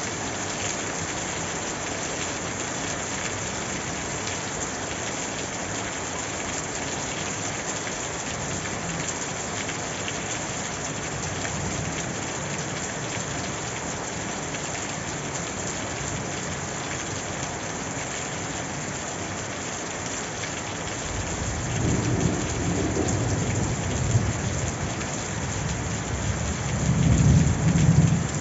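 Steady, even hiss of heavy rain falling on surfaces. About three quarters of the way through, a low rumble of thunder rolls in and swells, growing louder again near the end.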